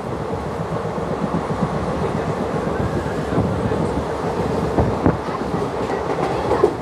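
Passenger train coach running along the track, heard at its open doorway: a steady rumble of wheels on rails with a few sharper clacks over rail joints, two close together about five seconds in.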